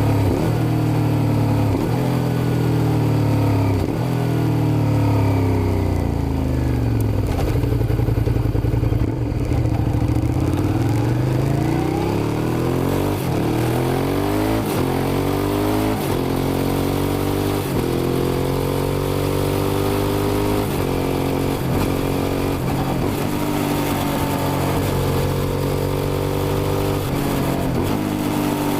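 Suzuki SV650's 645 cc V-twin engine under way on the road. Its pitch falls over the first few seconds, then rises again through several quick gear changes and settles to a fairly steady cruise near the end.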